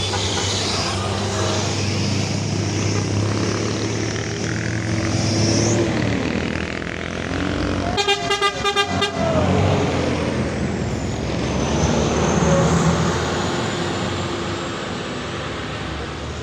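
Trucks running on the road with steady engine drone, and a quick string of horn toots, about six short blasts in just over a second, about eight seconds in.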